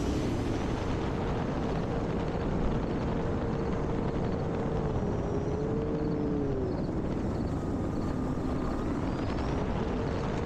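Electric-powered E-Flite Air Tractor RC plane flying: its brushless motor and propeller give a faint steady drone that dips in pitch about five seconds in, under a steady rushing noise.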